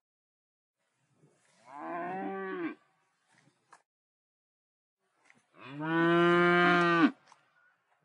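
Cattle mooing twice: a shorter, quieter moo about two seconds in, then a louder, longer moo about six seconds in.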